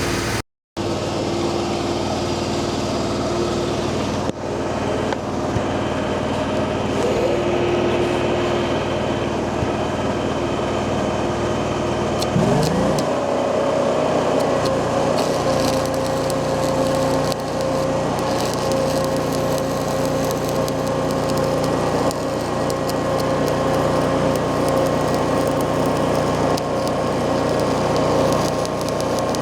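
A machine motor running steadily, its pitch rising and settling higher about twelve seconds in as it speeds up.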